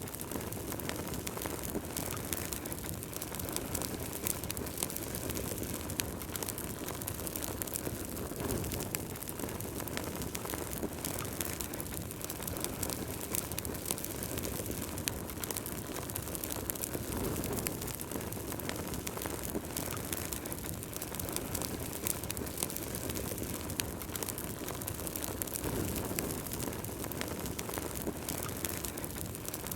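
Wood burning in a fireplace: a steady low rush of flames with frequent small, sharp crackles and pops throughout.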